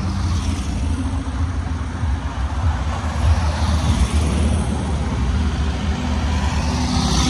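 Air-cooled Volkswagen flat-four cars driving past close by, their engines giving a deep, steady rumble.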